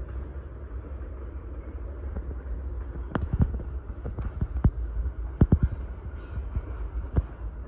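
Freight train of covered hopper grain cars rolling past at a distance: a steady low rumble, with a string of sharp clacks from the wheels over rail joints starting about three seconds in.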